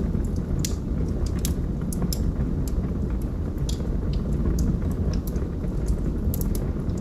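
Log fire crackling: irregular sharp snaps and pops over a steady low rumble.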